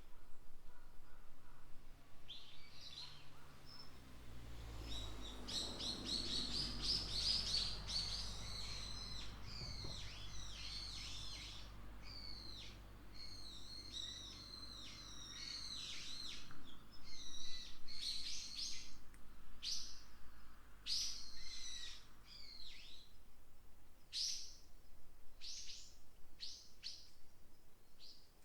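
Small forest birds chirping and singing in quick, overlapping phrases, which thin to separate sharp calls in the second half. A faint low wind rumble runs under them for most of the stretch.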